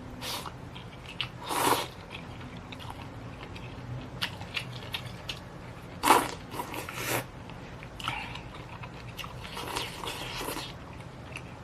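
Close-miked eating: bites and chewing of food, in a handful of separate short crunchy bursts, the loudest about six seconds in.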